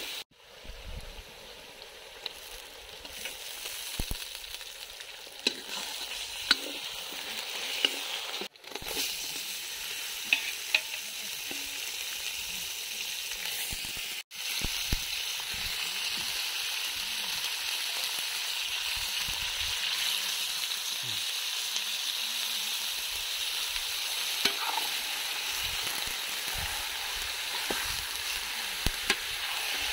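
Onions frying in oil in an iron kadhai, sizzling, with a steel ladle scraping and clicking against the pan. After a short break about halfway through, raw chicken pieces go into the hot oil and the sizzle becomes louder and steadier.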